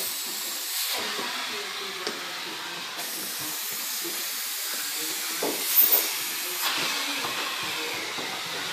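Vacuum cleaner running with a steady airy hiss, briefly louder with a short high squeal about five and a half seconds in.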